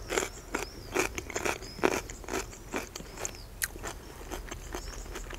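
Close-up mouth sounds of someone chewing grape-leaf dolma: soft wet smacks and clicks, irregular, about two a second.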